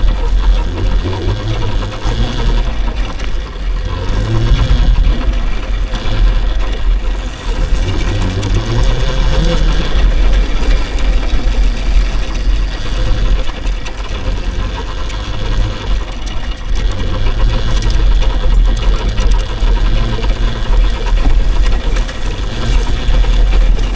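An electric dirt bike being ridden over dirt, with heavy wind rumble buffeting the microphone and a steady motor whine underneath.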